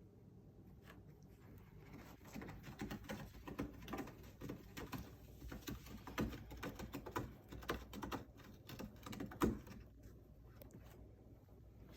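Siamese cat clawing a scratcher with rapid, rough scratching strokes, starting about two seconds in and stopping about ten seconds in, the strongest stroke near the end.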